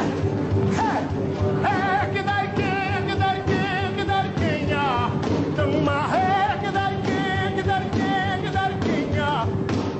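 Music with a singer holding long wavering notes in several phrases over a steady instrumental accompaniment.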